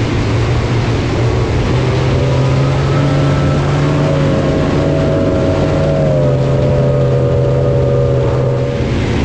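Jet boat engine running under way, its pitch climbing a little in the first few seconds, holding steady, then easing off near the end, over the rush of water and wind.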